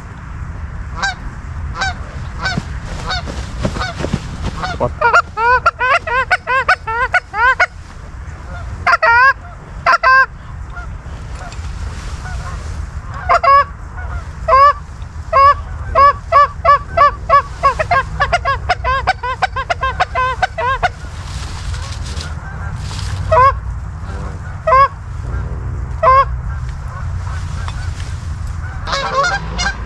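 Geese honking, many short honks in clusters with a fast, regular run of about three a second in the middle, over a low wind rumble.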